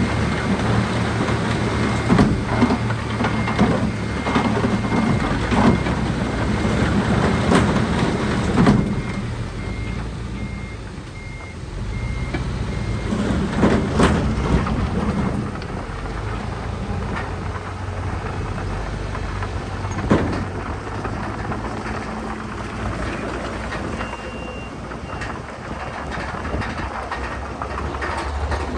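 Heavy diesel earthmoving machinery running, with a reversing alarm beeping at a steady rate that stops about halfway through. A few sharp clanks sound over the engines.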